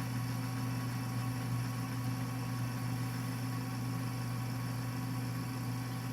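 Toaster oven running with its heat cranked up, a steady electrical hum with a faint hiss, as it ramps a reflow-soldering load from its soak temperature toward the solder's melting point.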